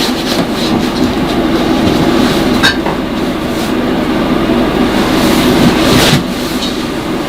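Shopping cart rolling over a shop floor: a steady rattling rumble from the wheels, with a couple of sharp clicks.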